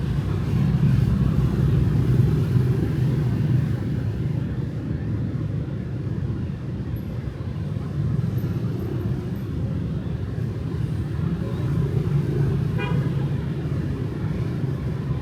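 Night street traffic of motorbikes and cars: a steady low rumble that swells as vehicles pass, with a short horn toot near the end.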